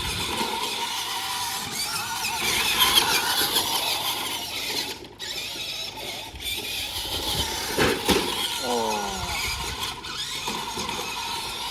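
RC monster truck at full throttle trying a burnout: its motor and spinning tires make a high-pitched sound that wavers in pitch. The sound cuts out briefly twice around the middle, and there is a single knock a little later.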